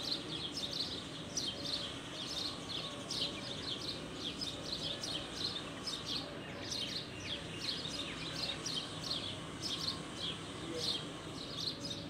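Many birds chirping: a dense run of short, high calls, several a second, over a steady low background noise.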